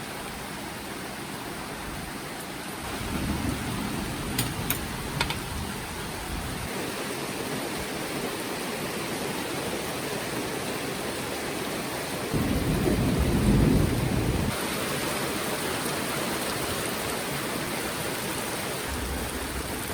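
Rain falling steadily in a storm. A low rumble swells about three seconds in, and a stronger one comes about twelve seconds in, lasting around two seconds.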